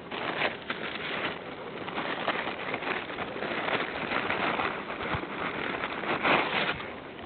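Wood fire crackling, with a dense run of pops and snaps over a steady hiss that swells briefly about six seconds in.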